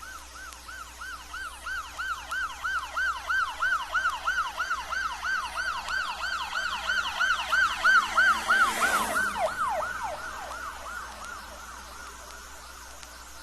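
Police car's "yelp" siren, a rapid rising-and-falling wail, approaching and passing. It grows louder, its pitch drops with a rush of road noise as the car goes by, then it fades away.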